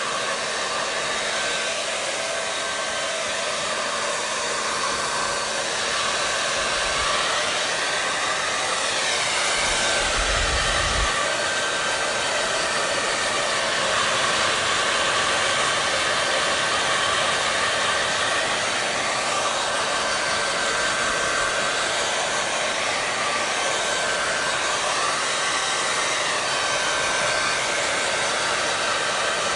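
Hair dryer running continuously: a steady rush of air with a faint high whine and a low hum. The pitch of the rush shifts slowly up and down a few times, and there is a short low bump about ten seconds in.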